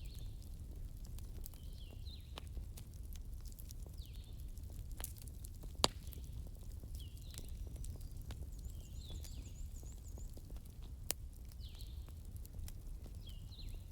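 Burning logs crackling, with scattered sharp pops, the loudest about six seconds in and another near eleven seconds, over a low steady rumble of the flames. Short high chirp-like sounds recur about once a second.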